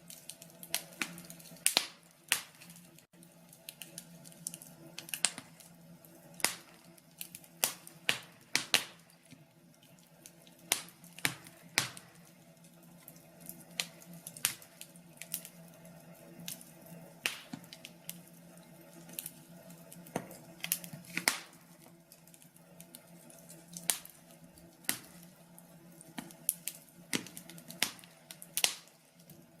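Wood fire in a fireplace crackling: irregular sharp pops and snaps at uneven intervals, over a faint steady low hum.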